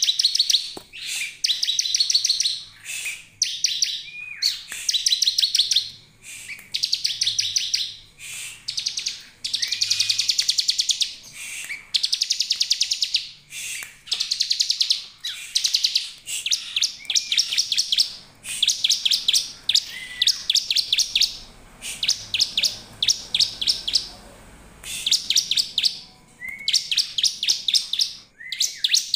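Bar-winged prinia (ciblek) calling: high, rapid trills of quickly repeated notes, each about a second long, one after another with short gaps, with an occasional short slurred note lower in pitch between them.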